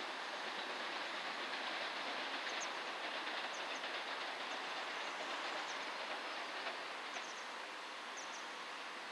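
Distant passenger train running on the tracks, a steady rumble with a few faint high ticks from the wheels and rails.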